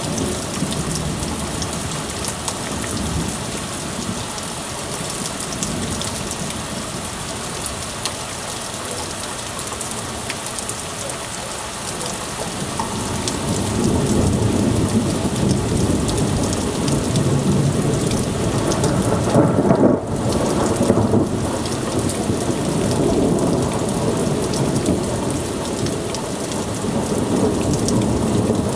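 Heavy thunderstorm: a steady downpour of rain hissing throughout, with a low rumble of thunder swelling about halfway through and peaking loudest near the end.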